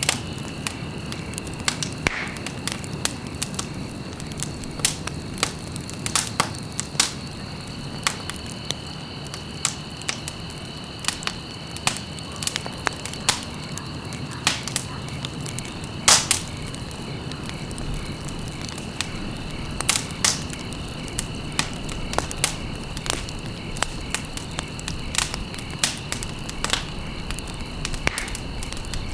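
Wood fire burning in a fireplace: irregular sharp crackles and pops over a steady low rumble of the flames, with an especially loud pop about 16 seconds in.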